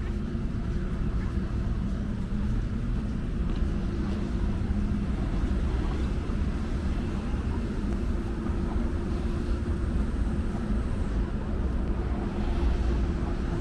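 Steady low rumble of vehicle traffic, with a constant engine hum held throughout.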